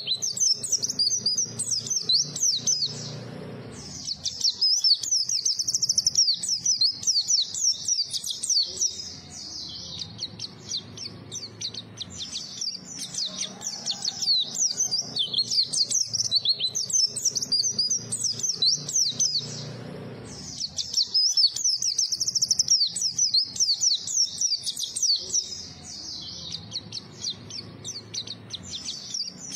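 A white-eye (pleci) singing a fast, high-pitched twittering song of rapid chirps and trills, broken by two short pauses, one a few seconds in and one about two-thirds of the way through.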